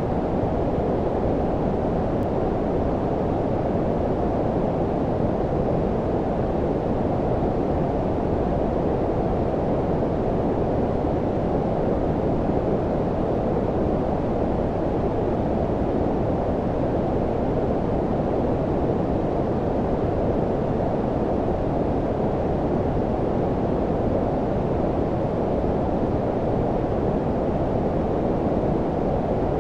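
Steady synthetic low-frequency noise, brown-noise-like: a deep, even rushing hiss with little above the low-mids, unchanging throughout.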